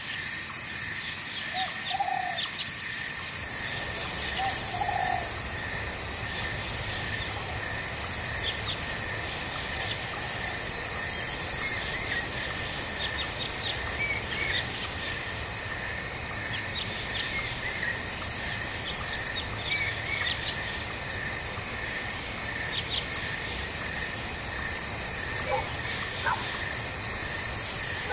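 Night forest chorus: crickets and other insects trill steadily, while a very high insect buzz starts and stops every few seconds. Frogs call and short chirps are scattered through it, over a faint low rush of stream water.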